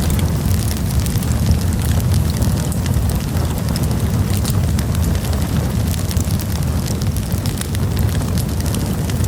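Wood campfire burning: a steady low rumble of flames with frequent sharp crackles and pops.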